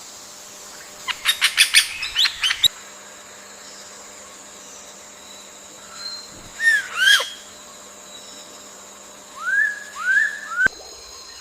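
Wild birds calling over a steady insect drone: a quick run of about seven sharp notes near the start, two downward-slurred notes in the middle, and three upward-slurred notes near the end.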